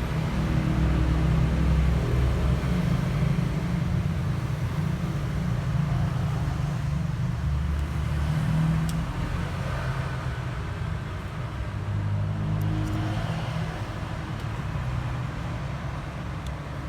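Steady low rumble of motor traffic, rising and easing as vehicles pass, with a few faint ticks.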